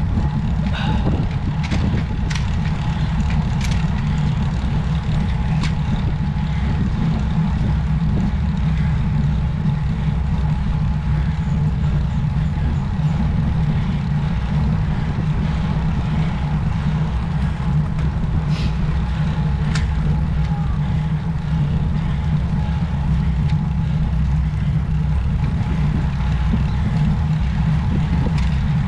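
Steady low wind rumble on the microphone while riding a road bike, with a faint steady whine and a few light clicks.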